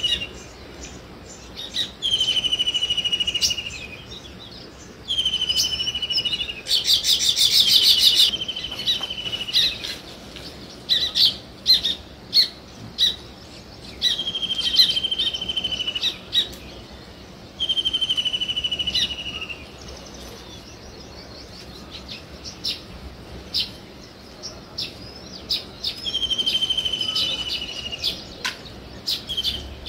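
Small songbirds calling: a drawn-out buzzy note, slightly falling, repeats about six times, with short chirps in between and a burst of rapid chattering about a quarter of the way in.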